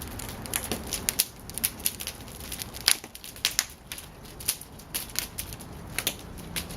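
Bonfire crackling and popping, with many irregular sharp cracks, a few standing out louder than the rest.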